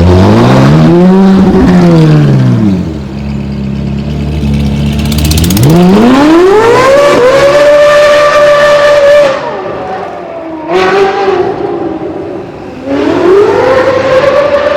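Ferrari 458 Italia's naturally aspirated 4.5-litre V8 through a Novitec Inconel exhaust, revved repeatedly with a high, screaming note. There is a quick blip, a few seconds at a lower steady note, then a long rev that climbs and holds high for about two seconds before dropping, a short blip, and another rev that climbs and holds high near the end.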